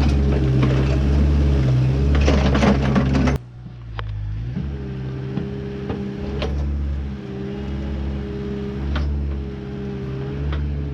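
Backhoe's diesel engine running steadily while it digs, with a few sharp knocks. The sound drops suddenly in loudness about a third of the way in, then carries on at a lower level.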